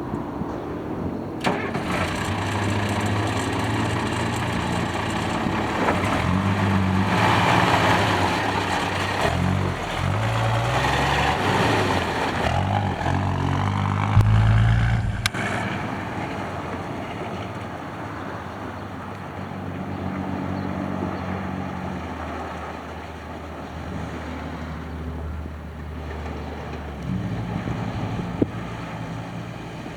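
A 1963 2½-ton water truck's engine starts about a second and a half in and is revved up and down several times. It drops back abruptly around the middle and runs at a lower, steadier idle with occasional small revs.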